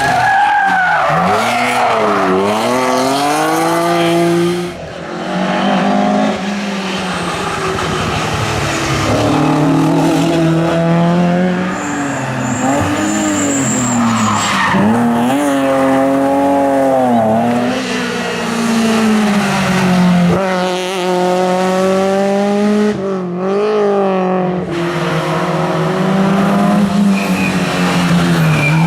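Rally car engine at full stage pace, its pitch climbing hard and dropping again and again through gear changes and braking for corners, with tyre squeal.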